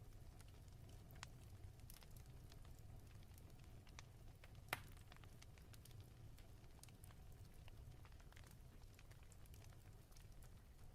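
Faint crackling fire over a steady low rumble: scattered soft crackles, with one louder pop about halfway through.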